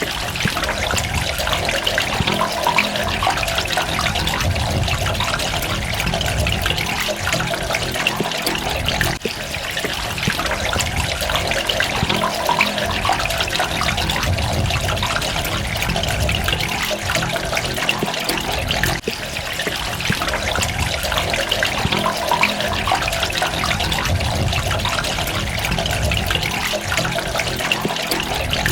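Water running and trickling steadily, with brief slight dips in level twice.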